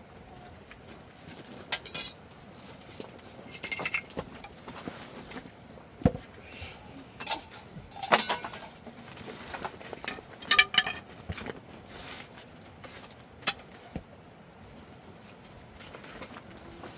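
Dishes and utensils clinking and knocking: a dozen or so separate short clinks at irregular intervals, some ringing briefly.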